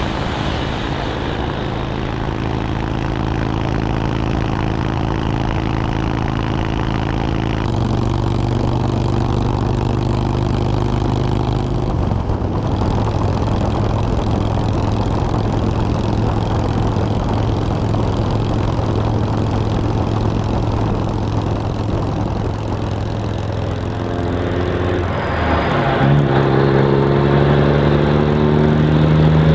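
Motorcycle engine running under way with wind noise. Its note changes about eight and again about twelve seconds in. Near the end it rises in pitch and gets louder as the bike accelerates.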